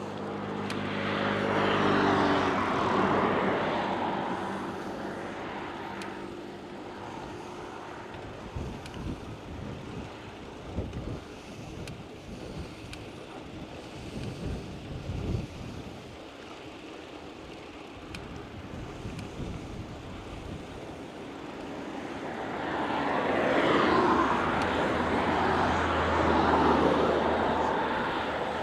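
Two motor vehicles pass close by, the first in the opening few seconds with its engine note falling as it goes, the second swelling from about 22 seconds in and fading near the end. In between, wind gusts rumble on the microphone.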